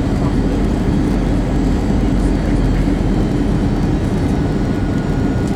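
Steady low rumble of engine and airflow noise inside an Airbus A321's passenger cabin, even and unbroken with a faint steady tone above it.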